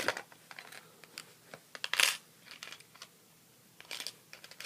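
Hard-bait fishing lures and tackle being handled: scattered clicks, rattles and knocks of hard plastic and metal, loudest at the start and about two seconds in, with a small cluster of clicks near the end.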